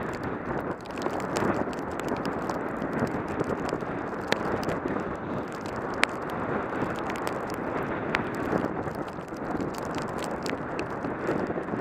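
Bicycle being ridden through snow: a steady rushing noise of the tyres in the snow, with many small clicks and knocks scattered throughout, the sharpest about six seconds in.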